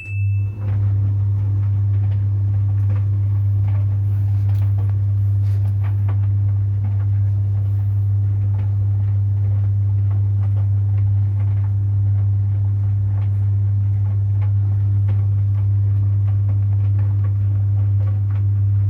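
Samsung heat pump tumble dryer running with a steady, loud, deep hum, towels tumbling in the drum. A brief high beep comes right at the start.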